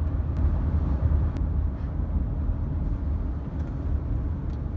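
Honda Odyssey minivan on the move, heard from inside the cabin: steady low road and engine rumble, with a few faint clicks.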